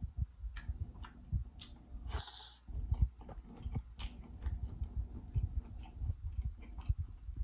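Close-miked chewing of saucy seafood: wet mouth smacks, soft thuds and small clicks that come in an irregular stream, with a brief slurp about two seconds in.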